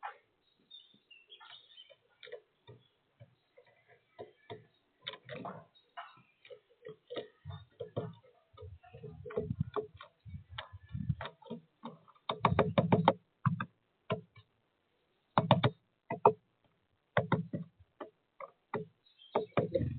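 Woodpecker pecking at sunflower seeds on a bird feeder: irregular sharp taps and knocks, with quicker runs of taps a little past the middle.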